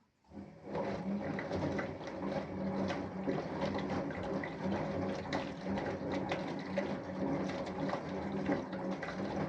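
Samsung Eco Bubble washing machine mid-cycle: water rushing and sloshing inside the machine, with small scattered clicks. It starts abruptly after a brief silence and then runs steadily.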